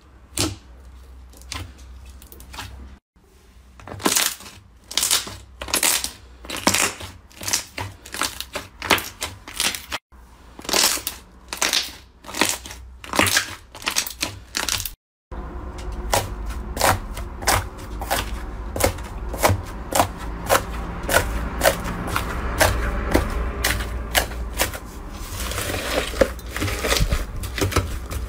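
Slime being squeezed and pressed by hand: repeated crackly squishes, about two a second. After an abrupt cut about halfway through, it becomes a denser, continuous crackling with a low rumble under it.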